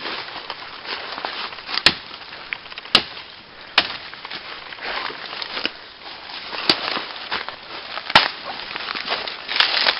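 A series of sharp cracks, about six spread irregularly through the stretch, over a steady rustling crackle, like dry wood or twigs snapping.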